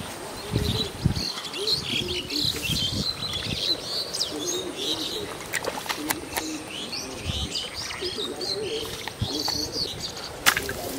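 Small birds chirping and twittering in quick, repeated clusters, with a few sharp clicks, the loudest near the end.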